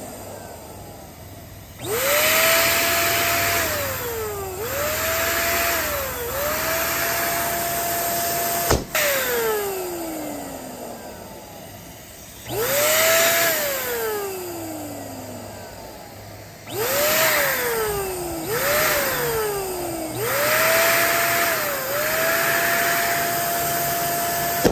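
Small electric balloon pump run in short bursts, its motor whine spinning up to a steady pitch and sliding down each time it stops, with air hissing, as it inflates a balloon. The balloon bursts with a sharp pop about nine seconds in, and the pump winds down. A second balloon is pumped up the same way and pops at the very end.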